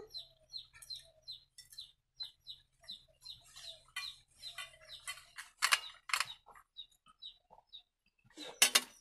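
High, rapid peeping of birds, about four short chirps a second at first, becoming sparser after a few seconds. A few short, louder rustling or scraping noises come about six seconds in and again near the end.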